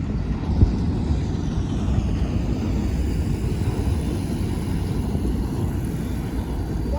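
Steady low rumble of a sugar-cane freight train rolling past, with faint high tones slowly falling in pitch in the middle.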